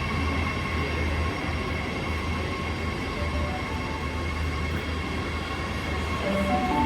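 New Intercity Fleet D set electric train departing from the platform, with a steady low hum and a steady high whine from its motors.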